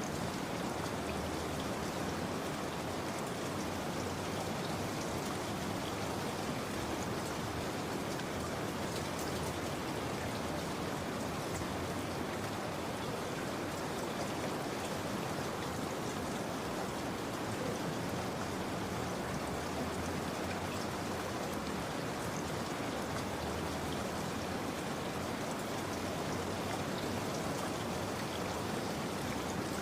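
Steady rain falling, an even wash of sound that holds the same level throughout.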